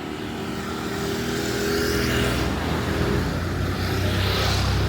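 A motor vehicle drives by close at hand, its engine hum and tyre noise growing louder over the first two seconds and then holding.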